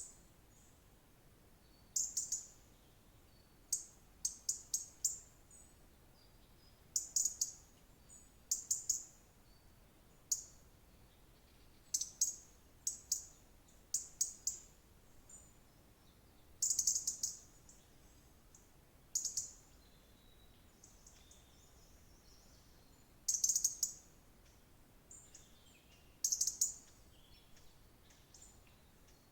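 A songbird chirping: short bursts of quick, high chirps every one to three seconds, with fainter calls from other birds in between.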